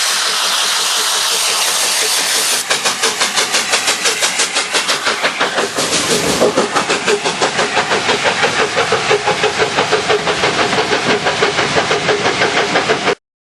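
LNER A4 Pacific steam locomotive No. 60007, a three-cylinder engine: a steady hiss of steam, then about three seconds in its exhaust beats start, an even chuffing of about four beats a second as it works. The sound cuts off suddenly near the end.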